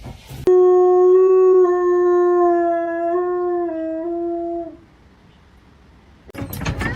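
A dog howling: one long, level note of about four seconds with small steps in pitch. Noisy sound starts near the end.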